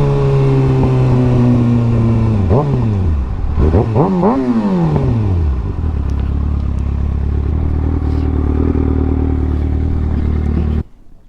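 Sport motorcycle engine slowing as the bike rolls to a stop, with a few quick throttle blips that rise and fall in pitch, then settling to a steady idle before cutting off suddenly near the end.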